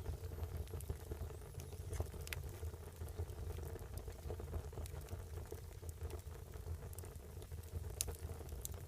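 Wood fire burning with a low steady roar and scattered sharp crackles and pops, the loudest about two seconds in and about eight seconds in.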